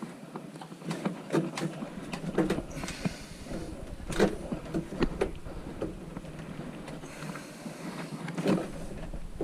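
Irregular knocks, clicks and clatter of hands-on work on plastic vent pipe and fittings, several sharper knocks scattered through.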